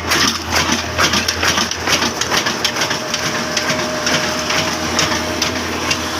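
Old Hornsby diesel engine running a small rice mill: a steady low hum under rapid, uneven knocking and crackling from the machinery. The knocking thins out about halfway through, when a faint steady whine comes in.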